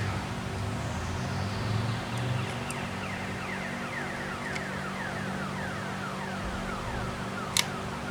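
Wire wheel's electric motor winding down after being switched off: a slowly falling whine over a steady hum, with a sharp click near the end.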